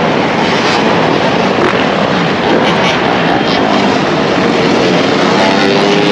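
Many dirt bike and ATV engines running together in a dense, continuous din, with engines revving up toward the end.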